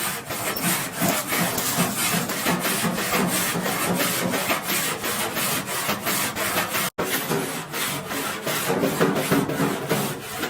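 Rapid, rhythmic rasping strokes of a hand abrasive tool worked back and forth over a car body panel, about four to five strokes a second, briefly cutting out about seven seconds in.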